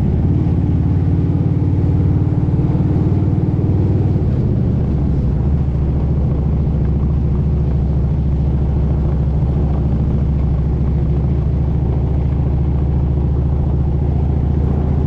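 Motorcycle engine running steadily under way, a low even drone. About four seconds in, its note shifts slightly lower and then holds steady.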